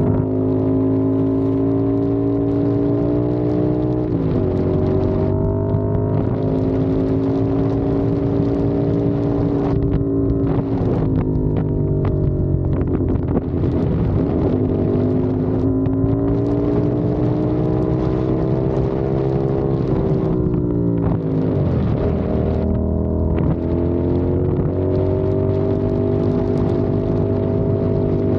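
CFMOTO 450SR parallel-twin engine pulling under way. Its pitch climbs steadily, dips sharply several times and rises again, with wind noise on the microphone.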